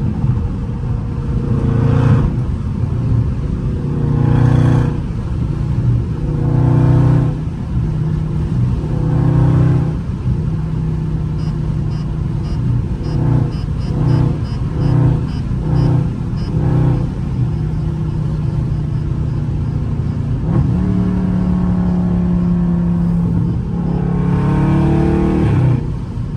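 Dodge Charger Scat Pack's 392 HEMI V8 pulling under acceleration, heard from inside the cabin. The engine note swells and rises in pitch in several surges over the first ten seconds, then runs steadily, with another rise near the end.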